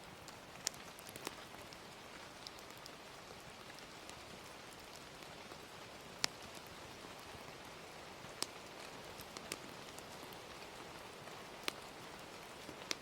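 Gentle rain as a steady hiss, with a crackling fire's sharp pops scattered through it, about half a dozen. The loudest pop comes about six seconds in.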